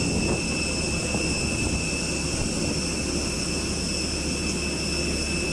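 Jet airliner engines running: a steady high whine over a low rumble.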